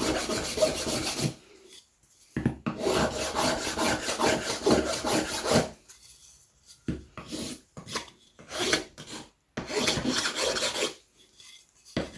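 Hand abrading of the sharp edges of a strop's base to round them off: fast back-and-forth rubbing strokes in two long runs, then shorter bursts with pauses after about six seconds.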